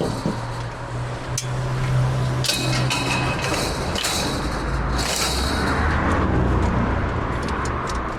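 A motor vehicle engine running steadily, with several bursts of hiss.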